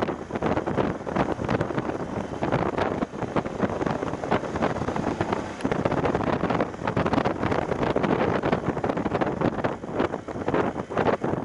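Heavy wind buffeting on the microphone of an action camera riding on a moving BMW F750GS motorcycle, with the bike's parallel-twin engine running beneath it. The rushing noise surges and dips unevenly.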